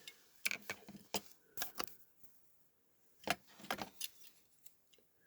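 Light clicks and rattles of small hard parts being handled, in two short clusters.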